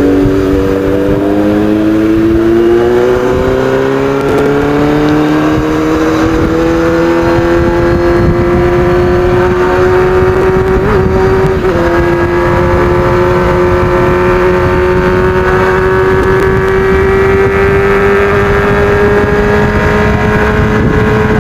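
Kawasaki Z800's inline-four engine with an aftermarket racing exhaust under hard, sustained acceleration. The pitch climbs steadily, dips briefly at an upshift about twelve seconds in, then holds high and keeps creeping upward at speed.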